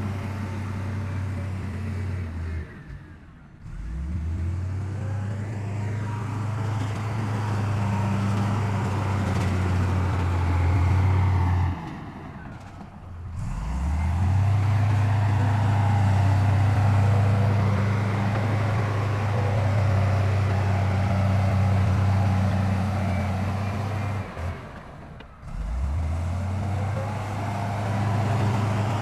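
Heavy diesel engine of earthmoving machinery running steadily under load. Three times it drops away, about 3, 12 and 25 seconds in, then revs back up with a rising pitch.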